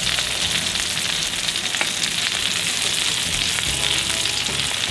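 Sausage slices, green peppers and onions sizzling steadily in bacon and sausage grease in a frying pan, a steady frying hiss with an occasional small pop.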